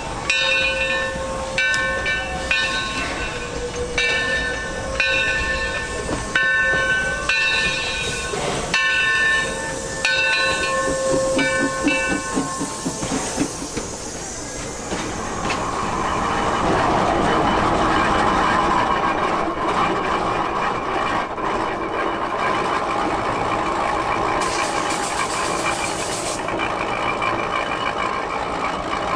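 Struck ringing tones repeating about once a second, then, from about halfway, a train passing with a steady rushing noise.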